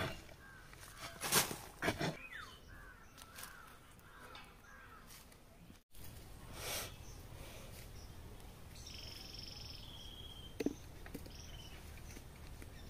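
Birds calling outdoors: a few loud short calls in the first two seconds, thinner chirps after them, and a higher call with several steady tones about nine seconds in. A single sharp click sounds near the end.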